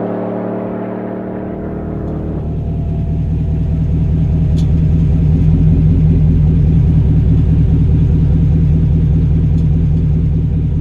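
Supercharged 6.2-litre V8 of a GMC Sierra pickup running with a deep, even exhaust rumble. About two seconds in its higher tones drop away and the low rumble grows louder, holding steady through the rest.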